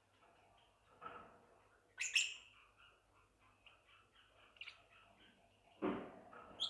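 Forpus parrotlet chicks chirping, faint and rapid, with a few louder sharp chirps: the loudest about two seconds in, another near the end. Two short, noisier sounds also come about a second in and near six seconds.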